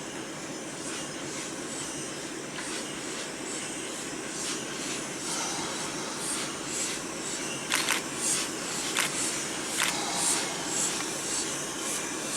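A heritage railway train's steady running noise, with a series of sharp metallic clanks and knocks coming in from about halfway through.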